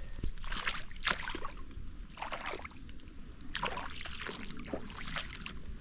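Rainwater runoff running across flooded ground toward a backyard pond, a steady rush with uneven splashy surges.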